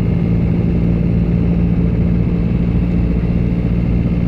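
Škoda Octavia RS's 1.8-litre turbocharged four-cylinder engine running at steady revs while cruising, heard from inside the cabin as an even drone over a low road rumble.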